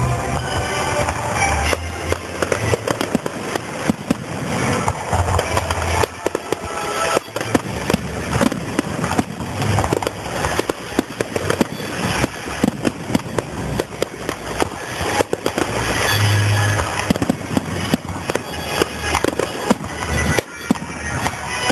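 Aerial fireworks going off in quick succession: dense crackling and popping with repeated deep booms throughout, with music playing underneath.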